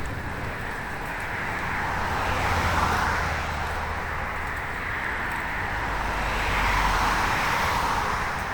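Two motor vehicles passing close by on the road, tyre and engine noise swelling and fading, one about three seconds in and another about seven seconds in.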